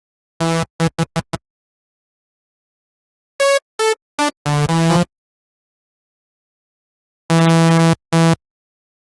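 Harmor software synthesizer playing short pitched notes in separate groups: five quick stabs, then a cluster of notes starting higher in pitch, then two longer held notes near the end, with dead silence in between.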